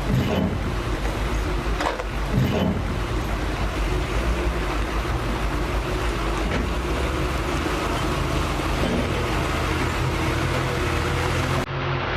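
Train in motion: a steady running rumble with a low hum, and a few short knocks in the first three seconds.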